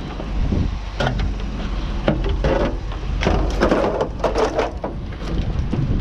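Irregular knocks, clatters and scrapes of junk being shifted around in a dumpster, over a steady low wind rumble on the microphone.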